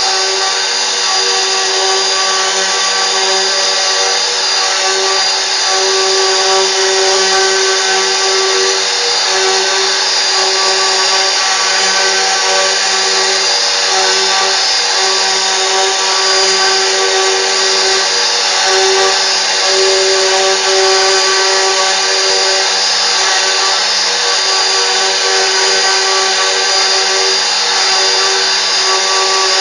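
CNC machine spindle running steadily, a constant multi-tone whine over an even hiss.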